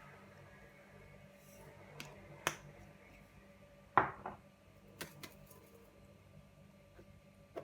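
A series of short, sharp clicks and knocks of small objects being handled, about eight in all, the loudest about four seconds in, over a faint steady hum.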